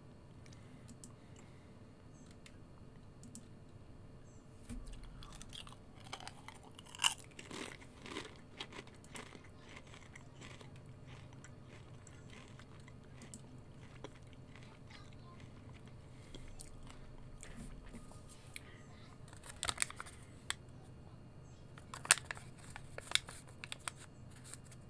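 Faint crunching and chewing of Pringles potato chips, in short scattered spells, with a busier cluster of small crackles and clicks near the end.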